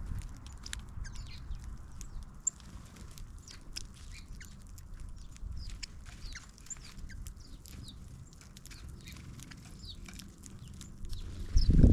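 Small birds chirping, many short scattered chirps from several birds, over a steady low rumble. A louder low burst comes near the end.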